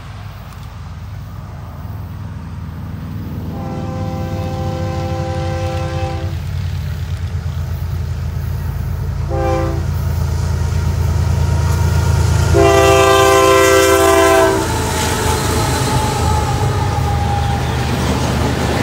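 BNSF diesel freight locomotives approaching and sounding the air horn in a long, a short and a long blast, the end of the long-long-short-long grade-crossing signal, over a diesel engine rumble that grows steadily louder. After the last blast the locomotives pass and loaded covered hopper cars roll by with rumbling wheel noise.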